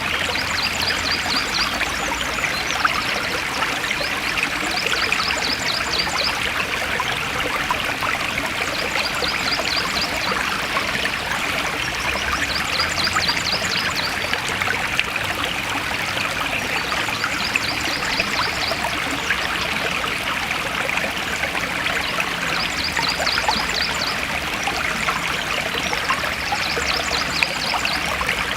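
Forest stream running steadily, water trickling and splashing over rocks. A high, rapid trill repeats every few seconds above the water.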